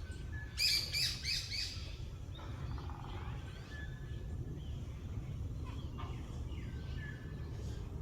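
Wild birds calling: a loud burst of four or five quick repeated chirps about half a second in, then scattered fainter whistles and short call notes from other birds, over a steady low background rumble.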